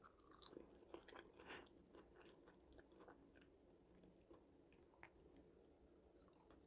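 Faint close-mic chewing and biting of homemade french fries: soft, scattered crunchy clicks, thickest in the first couple of seconds, with another bite about five seconds in.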